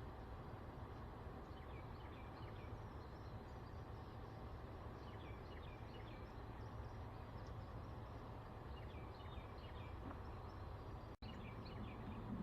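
Birds chirping, with short scattered calls, more of them in the second half, over steady low outdoor background noise. The sound drops out for an instant about eleven seconds in.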